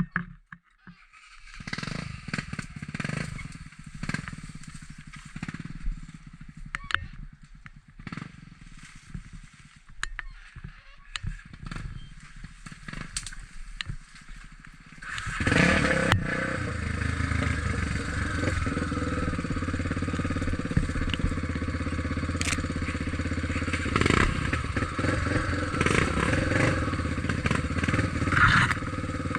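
Trail motorcycle engine running unevenly in the first half, then from about halfway running steadily and louder.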